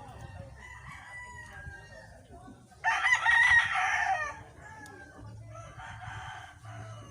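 A rooster crows once, loudly, about three seconds in, for about a second and a half. Fainter fowl calls come before and after it.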